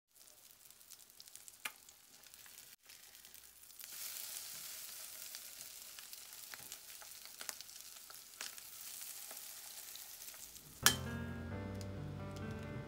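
Corned beef and onion patties sizzling in hot oil in a nonstick frying pan, with scattered small pops and spatula clicks. The sizzle grows louder about four seconds in, as a patty is turned with a spatula. Background music comes in sharply near the end.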